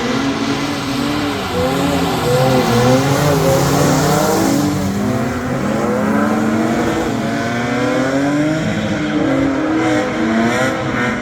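Drift car engine revving up and down over and over as the car slides, with a steady hiss of tyres on a wet track beneath it.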